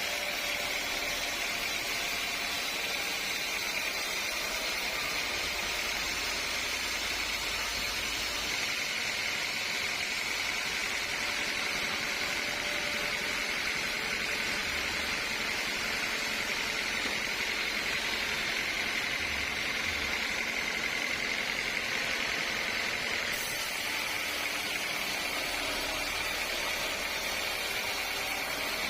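Sawmill saw machinery running steadily: a constant, unbroken high hiss with no pauses or strikes.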